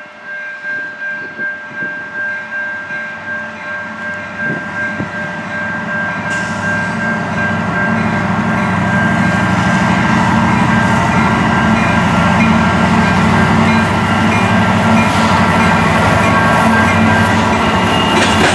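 A train rolling through, getting louder over the first half and then steady and loud. A rhythmic beat of about two a second is heard at the start, with steady high-pitched tones throughout.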